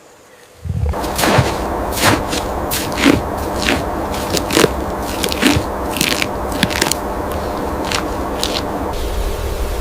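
Irregular sharp crackles and snaps, several a second, over a steady rustling background, starting about a second in.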